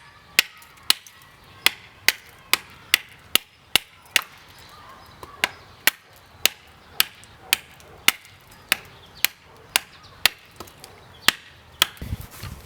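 Railroad-spike knife chopping into a maple hammer-handle blank: sharp chops about two a second, with one short pause partway through.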